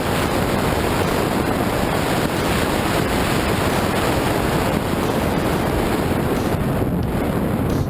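Steady wind roar buffeting a motorcycle rider's helmet microphone while riding at speed.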